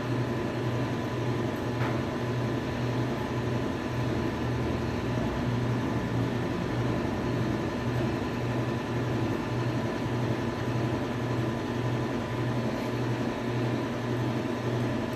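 A steady mechanical hum with a regular low throb, like a running fan or machine, which cuts off suddenly at the end.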